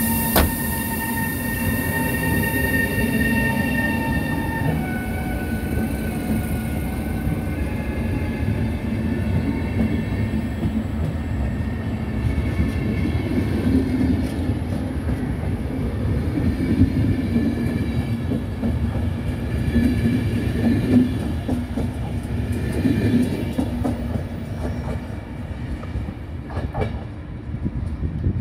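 RegioJet electric locomotive pulling its train out and passing close by, its electric drive whining in tones that jump in pitch several times as it gathers speed. The passenger coaches follow, rumbling with repeated wheel clicks over the rail joints, and the sound fades a little near the end as the train draws away.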